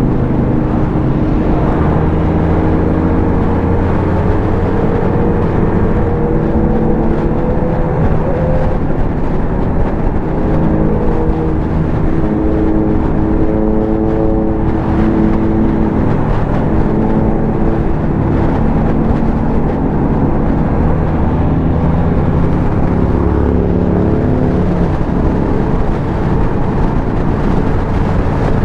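A motorcycle engine running steadily under way, its pitch drifting gently up and down with the throttle, over continuous road and wind noise.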